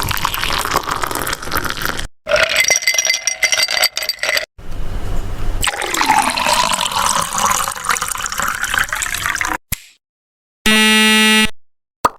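A string of separate stock sound effects with short silent gaps between them: several rushing, watery noise clips, the longest lasting about five seconds, then near the end a short, steady buzz tone.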